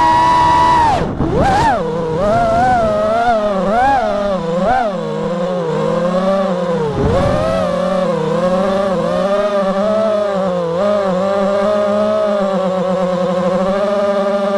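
FPV quadcopter's brushless motors whining under changing throttle. The pitch dips sharply about a second in, swoops up and down for several seconds, then settles into a steadier hum.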